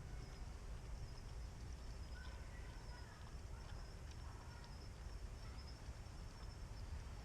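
Faint, steady high-pitched insect chirring, like crickets, over a low rumble, with a few soft clicks.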